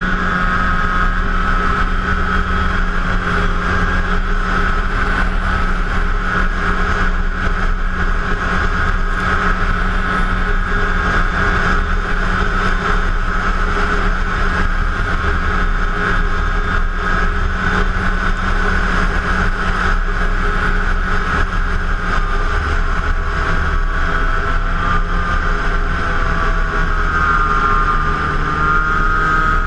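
2006 Arctic Cat F7 snowmobile's 700cc two-stroke twin engine running steadily while riding, its pitch wavering slightly in the last several seconds.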